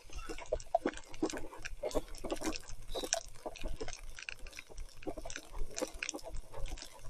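Mountain bike tyres squelching and splashing through wet mud, an uneven patter of sticky clicks over a steady low rumble.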